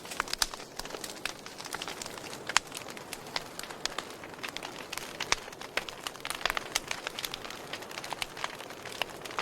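Campfire burning: wood crackling, with irregular sharp pops over a steady soft hiss. One louder pop comes about two and a half seconds in.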